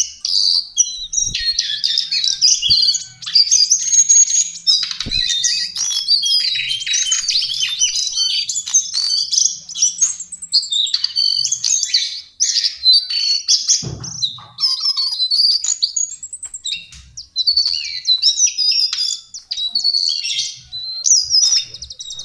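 Lesser shortwing singing: rapid, high-pitched jumbled warbling phrases following one another almost without a break, with a few short pauses. A few faint low thumps sound under the song.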